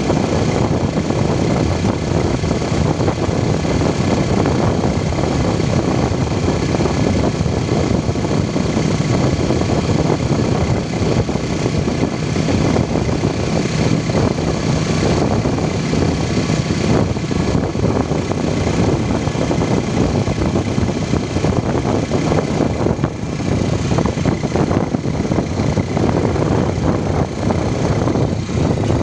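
Motorcycle engine of a tricycle running steadily while under way, heard from inside the sidecar, under a steady rushing noise.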